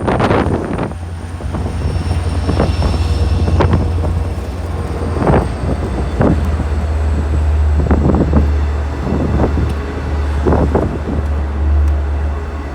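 Wind buffeting the microphone in irregular gusts over a heavy, steady low rumble.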